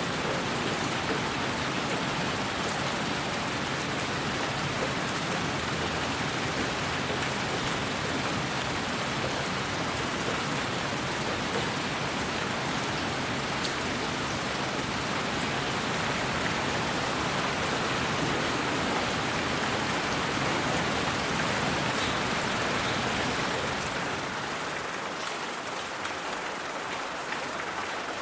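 Steady rain: an even hiss with scattered faint drop ticks. About 24 s in the low rumble thins out and it gets slightly quieter.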